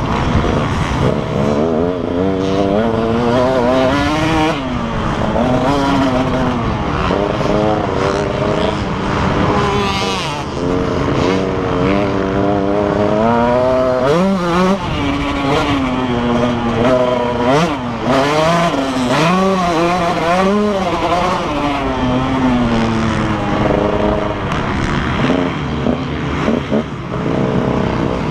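Motocross bike engine being ridden hard on track, its pitch climbing and dropping again and again every second or two as the rider opens and shuts the throttle through the gears.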